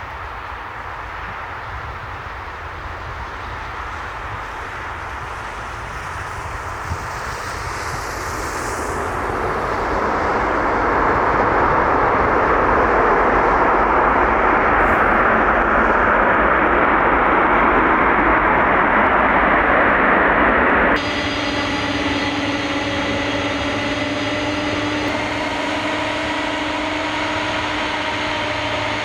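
Boeing 747 jet engines, growing louder over about ten seconds to a loud steady roar. About two-thirds of the way through the sound cuts abruptly to a quieter, steadier jet noise with several whining engine tones.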